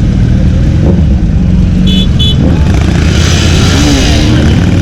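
Road traffic: motorcycle and car engines running close by in a steady loud rumble, with two short high beeps about two seconds in and a passing swell of noise shortly after.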